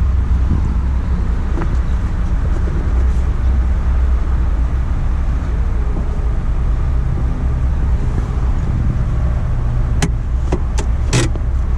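2020 Mazda MX-5 Miata's 2.0-litre four-cylinder engine idling steadily, heard from inside the cabin as a low rumble. A few sharp clicks come near the end.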